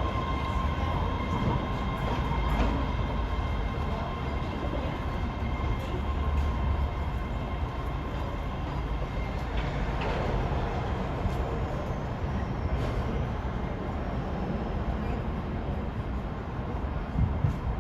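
Train running through the station: a steady low rumble with a high whine that fades away over the first few seconds, and scattered clicks from the wheels on the rails.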